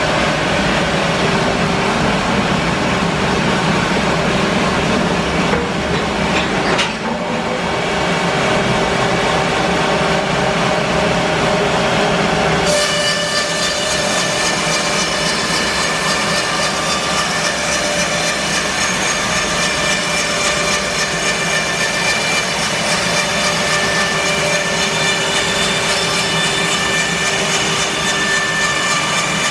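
Bandsaw mill running and sawing through English larch, a loud steady machine noise. About seven seconds in it dips briefly; from about thirteen seconds in it turns brighter, with a steady high whine over the noise.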